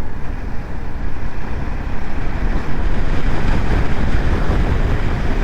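Wind rushing over the microphone of a motorcycle at road speed, a dense low rumble with riding noise mixed in; it grows a little louder about two seconds in.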